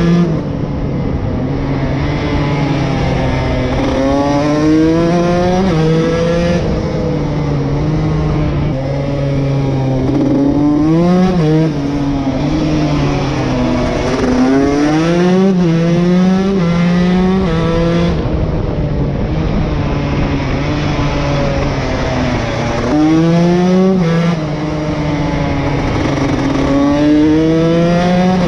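2021 KTM SX 150's single-cylinder two-stroke engine being ridden hard, its pitch climbing under throttle and dropping at each shift or roll-off, over and over, with wind and tyre noise underneath.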